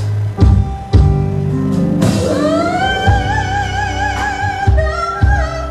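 Soul song with bass and drums, and a woman singing one long note that rises, then holds with a wide vibrato from about two seconds in until near the end.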